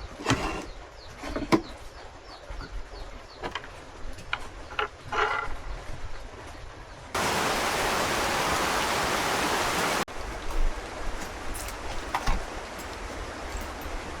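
Scattered small clicks and knocks, then about seven seconds in a loud steady rush of water noise starts abruptly and cuts off just as suddenly about three seconds later.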